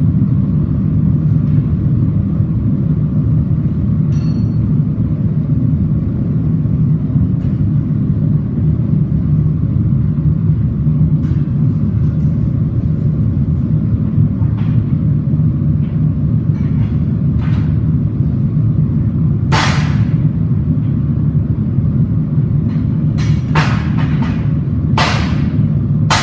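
A steady low roar runs throughout, with a few scattered light clicks and, in the last third, a run of sharp, ringing strikes of a hammer on metal.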